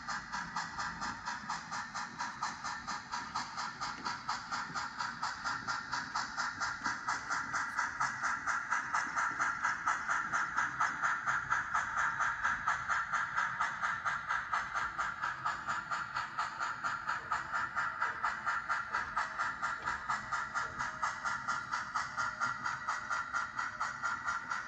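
Model train running on the layout, with a steady rhythmic clicking about three times a second.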